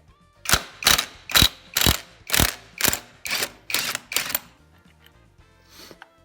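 Ratchet wrench worked in quick strokes: about nine bursts of clicking, roughly two a second, that stop about four seconds in.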